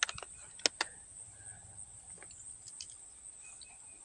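Insects chirring steadily in a continuous high-pitched drone, with a few short sharp clicks, most of them within the first second.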